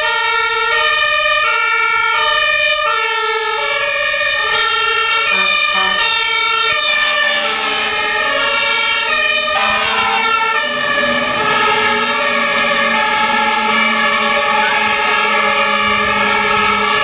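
German fire engines' two-tone sirens (Martinshorn) sounding on an emergency run, alternating between two pitches. A second two-tone siren joins out of step about three seconds in, and from about ten seconds in a steadier held tone takes over.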